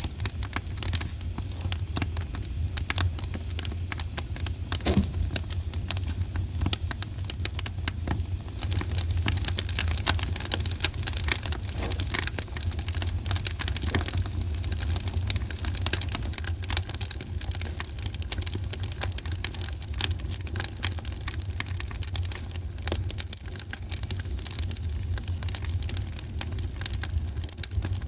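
Fireplace fire crackling continuously, with a dense run of sharp pops and snaps over a steady low rumble; one louder pop about five seconds in.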